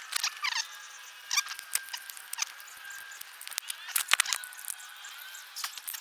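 Small birds chirping, with repeated short falling whistles and squeaky calls. Several sharp clicks come through, most of them about four seconds in.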